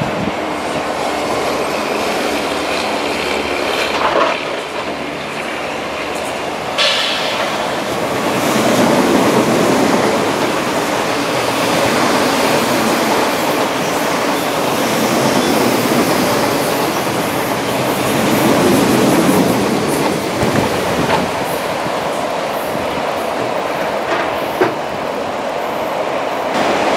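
MTR East Rail electric multiple-unit trains running past: a steady rumble of wheels on rails, swelling as a train goes by, with a few sharp clicks.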